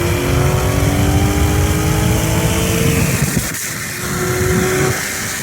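Car engine at full throttle in a race, its note climbing steadily through a gear for about three seconds, then a brief dip about three and a half seconds in, as at a gear change, before pulling again.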